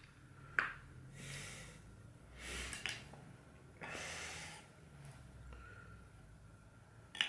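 A man breathing out heavily three times, with a few sharp clicks in between, the loudest about half a second in and right at the end.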